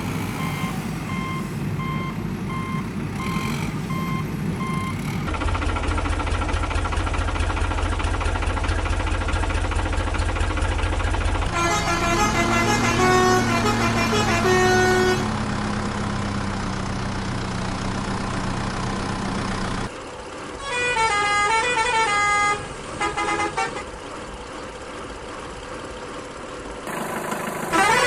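A string of vehicle sound effects: a truck's reversing beeps repeating evenly, then a low engine rumble, then a horn tooting over a running engine. A quick run of short horn-like notes follows and another loud horn burst comes near the end.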